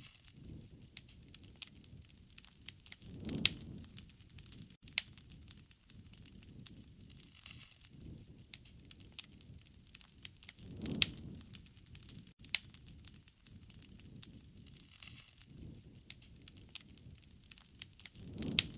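Wood fire crackling and popping with many sharp snaps, with a low rushing surge from the flames three times, about every seven or eight seconds.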